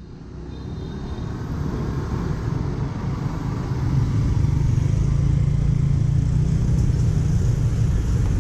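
Busy street traffic, mostly motorbike engines, fading up over the first few seconds into a steady rumble.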